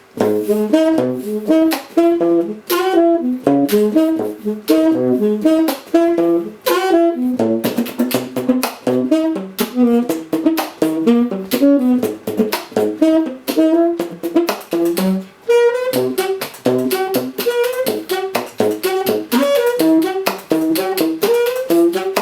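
Saxophone played inside a Bird Master practice mute: a fast, continuous jazz line of short notes, each with a sharp percussive attack.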